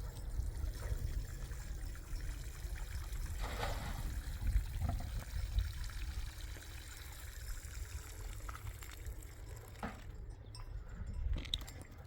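Water pouring and trickling, over a steady low rumble.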